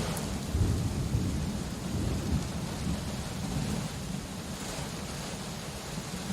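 Steady rain with a low rolling rumble of thunder that slowly dies away.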